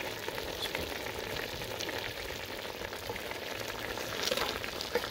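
Chicken pieces with lemongrass sizzling in a steaming aluminium pot: a steady hiss with small faint pops. A wooden spoon starts stirring near the end.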